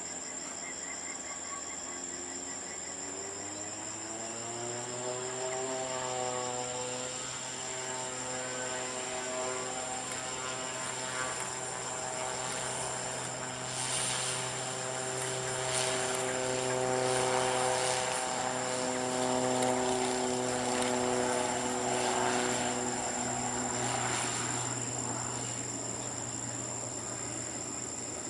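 Airliner's engines running steadily. Their hum rises in pitch over the first few seconds, then holds, and a rushing noise swells through the middle and fades again. Insects chirp steadily throughout.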